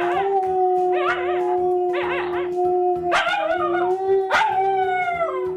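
Alaskan Malamute howling: one long steady howl held throughout, with shorter wavering howls over it about once a second, the last sliding down in pitch near the end.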